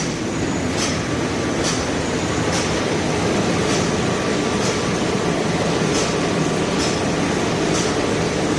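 Automatic shrink-wrap packaging line with a servo side sealer running: a steady machine noise with a short, sharp click repeating evenly a little more than once a second.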